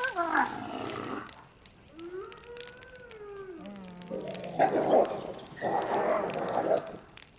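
Non-verbal creature vocalizations: a short falling cry, then a long wavering howl-like call, then two loud rough growls.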